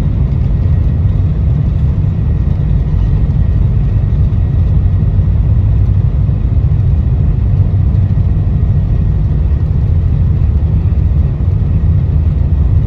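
Cabin noise of a Boeing 747-400 during its takeoff: its four General Electric CF6 turbofans at takeoff thrust, with a heavy, steady low rumble.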